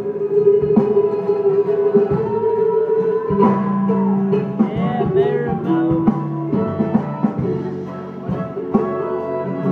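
Live acoustic band playing an instrumental break between sung lines: strummed and plucked guitar with other strings under a held, wavering melody line.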